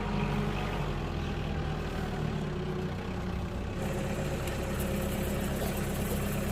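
Farm tractor engine running steadily; its note shifts slightly and a hiss rises about four seconds in.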